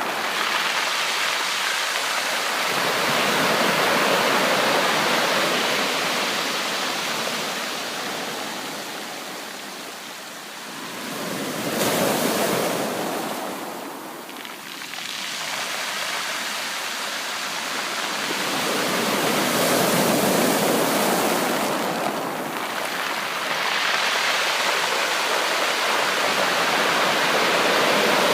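Sea waves breaking and washing on a shore, a continuous rush that swells and ebbs in slow surges several seconds apart.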